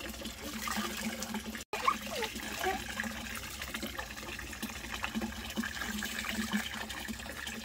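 Water running steadily, with a brief cut to silence about a second and a half in.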